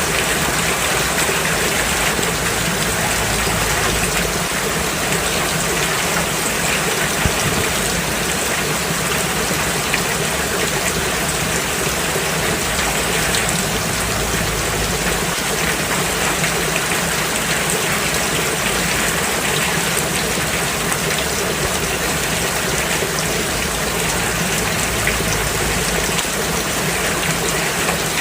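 Steady rain falling on a road surface: an even, unbroken hiss of drops with scattered sharper taps.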